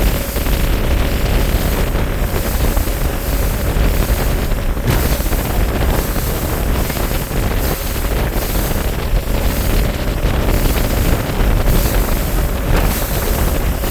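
Bass boat under way: its outboard motor running steadily under heavy wind buffeting on the microphone, with water rushing against the hull.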